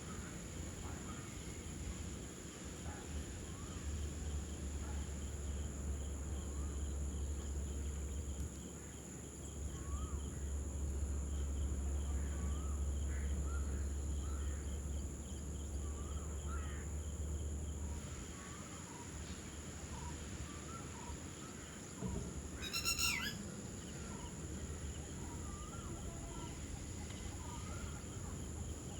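Outdoor wildlife sounds: many short, rising chirping calls repeat throughout over a steady high insect drone and a low rumble. About 22 seconds in comes a brief, loud, shrill call.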